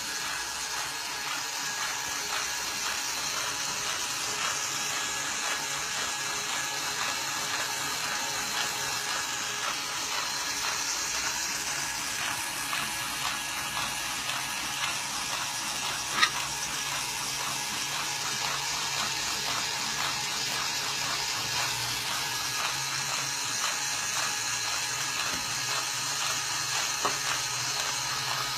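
Car engine running steadily with a fast, even ticking over a low hum; a single sharp click about sixteen seconds in.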